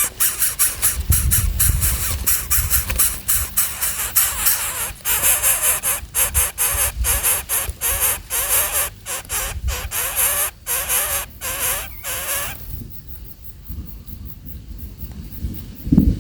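Baby birds calling shrilly, many voices overlapping in a harsh, rasping chorus broken by short gaps; the calling stops about three-quarters of the way through and only faint sound remains.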